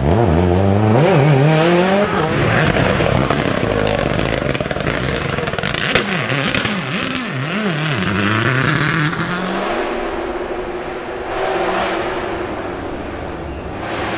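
Rally car engine revving hard, its pitch climbing and dropping through gear changes, with a few quick up-and-down revs in the middle, then running steadier near the end.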